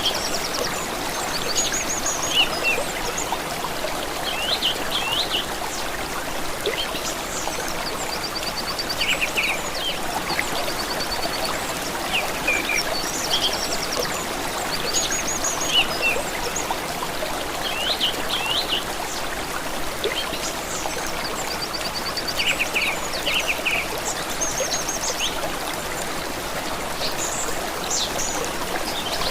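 Small stream trickling steadily, with birds singing over it in short chirps and quick trills every second or two.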